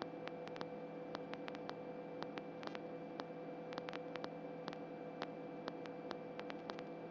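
Faint steady electrical hum and hiss on the helicopter's radio audio feed, with scattered irregular static clicks.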